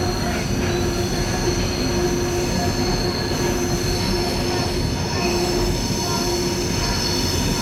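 Passenger train running at speed, heard from inside the carriage: a steady rumble of wheels on rail with a steady high whine over it and a lower hum that comes and goes.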